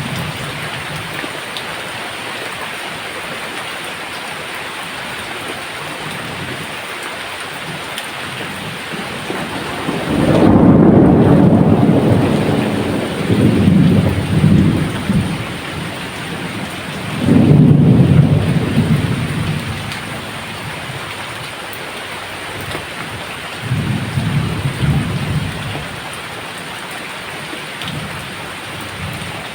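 Steady rain with rolling thunder. A loud rumble starts about ten seconds in and carries on for several seconds, another comes a little after the middle, and a fainter one comes near the end.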